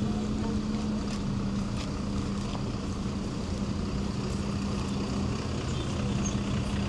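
Street noise with a steady, low engine hum from a motor vehicle running nearby, with a few faint ticks over it.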